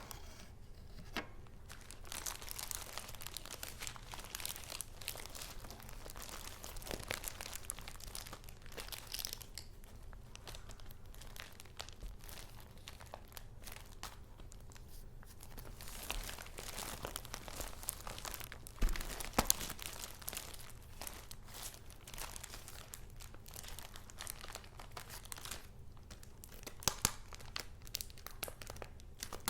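Paper and card rustling and crinkling as handmade junk journal pages and paper pieces are handled and turned. A few sharp clicks stand out, the loudest about two-thirds of the way through and another near the end, over a faint steady low hum.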